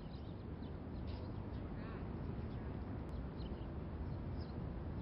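Outdoor park ambience: a steady low background rumble with scattered short bird chirps throughout and a brief call about two seconds in.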